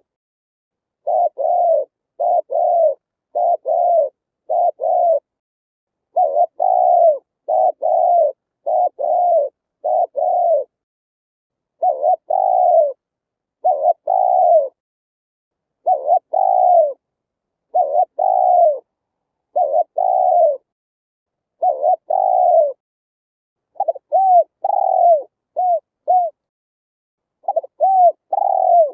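Spotted dove cooing: a steady run of low, separate coos, each sliding down in pitch, grouped in short runs with brief gaps. Toward the end the coos turn shorter and clipped.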